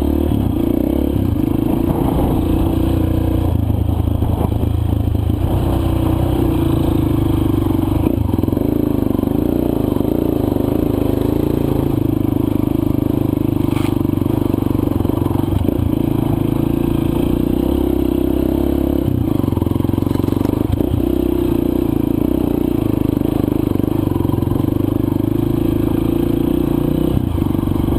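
Four-stroke single-cylinder dirt bike engine running at a fairly steady pace while riding a loose, dry trail, with a few brief clatters and knocks from the bike over the rough ground.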